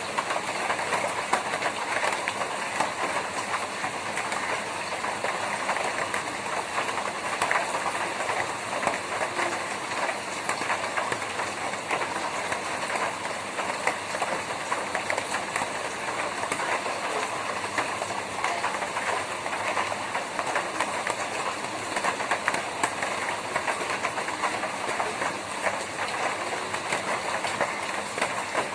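Steady rain falling on a tin roof, the drops striking the metal as a dense, uneven run of small ticks over a constant hiss.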